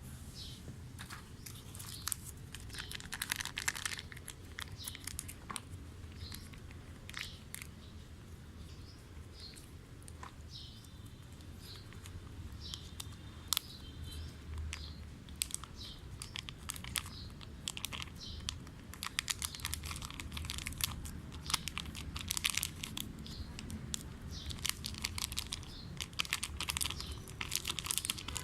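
Plastic seasoning and ingredient sachets being handled, crinkled and torn open: irregular crackling with short tearing snaps, thickest near the end.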